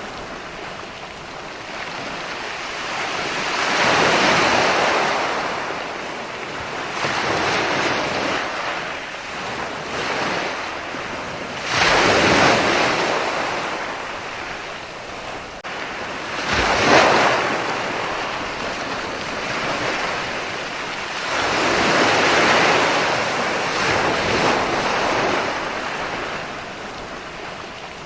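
Ocean waves breaking one after another, each rushing in and fading over a few seconds. The sharpest crashes come about twelve and seventeen seconds in.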